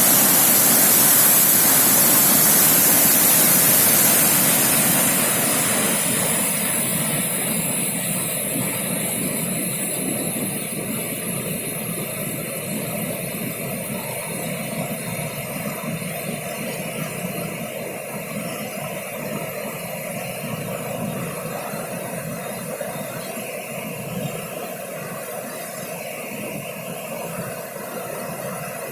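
Waterfall swollen after heavy rain: a steady rush of falling water that grows quieter from about four seconds in, then holds steady.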